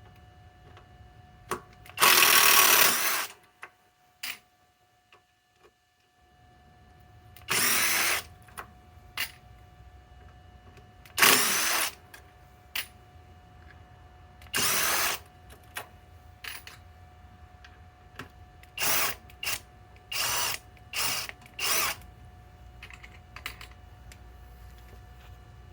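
SKIL PWR Core 20 cordless impact driver running in short bursts as it backs out fasteners: eight runs, the first the longest at about a second, the last four short and quick together near the end, with small clicks between them.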